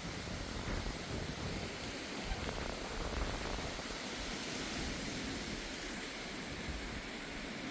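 Strong gusty wind ahead of a thunderstorm: a steady rushing hiss with uneven low buffeting of the wind on the microphone.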